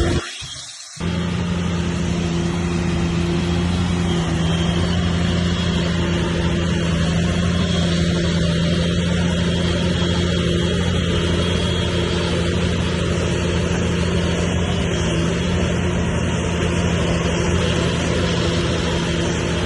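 Heavy diesel engine of earthmoving machinery running steadily at a constant pitch. It comes in about a second in, after a brief drop in sound.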